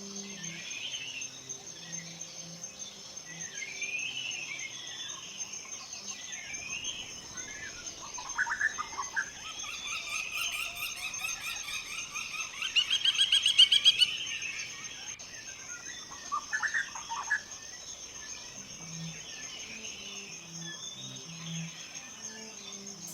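Woodland songbirds singing, with several louder, rapid trilled phrases around the middle, over a steady high-pitched insect trill.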